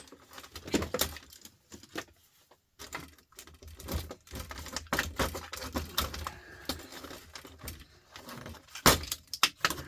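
Irregular clicks, taps and rattles of hand tools and small plastic and metal parts being worked at while prying apart a small appliance, with a short lull about two seconds in and a few sharper knocks near the end.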